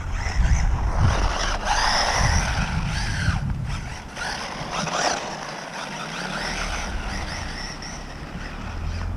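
Electric RC short course truck's motor whining, rising and falling in pitch as it speeds up and slows, with a low rumble over the first few seconds.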